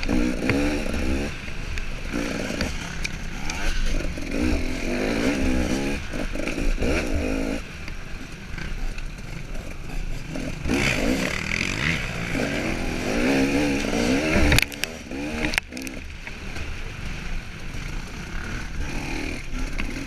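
KTM 300 XC two-stroke single-cylinder engine being ridden on a trail, revving up and falling back again and again as the throttle is worked. A couple of sharp knocks come about fifteen seconds in.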